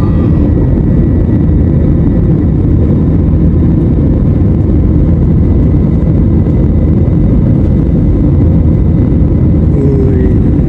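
Steady loud roar of an airliner's engines and rushing air heard inside the passenger cabin, with a faint steady whine above it.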